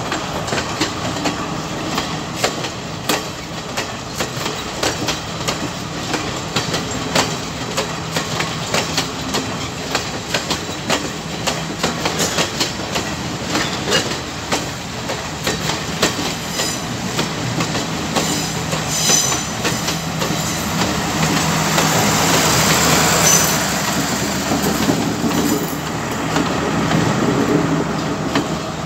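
Sri Lanka Railways Class S12 diesel multiple unit's coaches rolling slowly past, wheels clicking over the rail joints, under the steady hum of a diesel power car. Louder wheel noise with brief high squeals comes through the second half.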